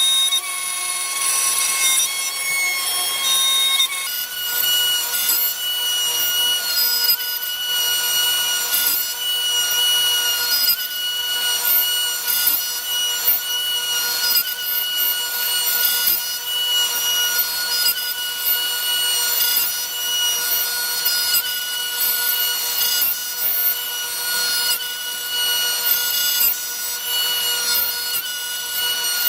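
Lowrider2 CNC's router spinning a 1/4-inch two-flute compression end mill and carving wood in a clearing pass: a steady whine with a continuous rasping cut. The whine's pitch shifts about four seconds in.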